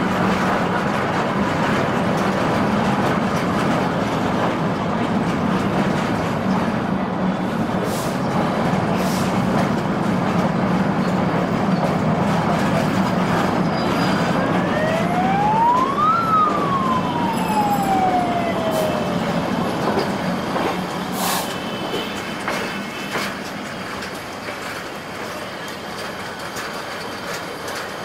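Meter-gauge passenger train running, heard from an open coach window: a steady rumble of wheels on track with a low drone, easing somewhat in the last third. Midway a single siren wail rises in pitch for about two seconds and falls away over the next three.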